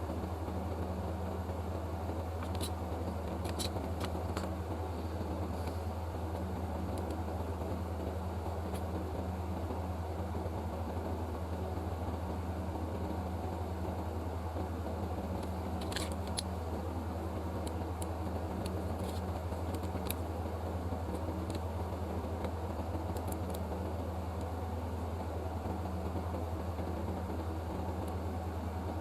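Steady low machine hum with a few faint, brief ticks.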